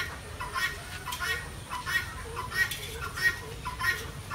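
Birds calling in short, repeated chirps, about one every two-thirds of a second.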